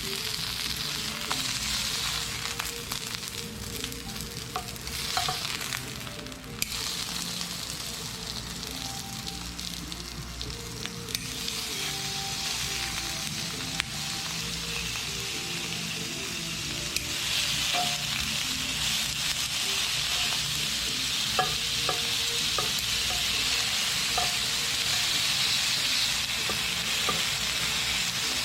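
Thick-cut black pork neck sizzling steadily as it cooks, with quiet background music; the sizzling gets louder about two-thirds of the way through.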